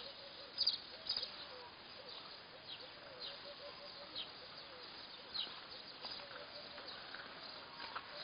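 Birds chirping: short, high, falling calls about a second apart, over a steady hiss of open-air background.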